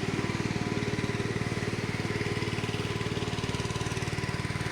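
Small engine running steadily with a fast, even pulse and a low hum, as heard while riding on the vehicle.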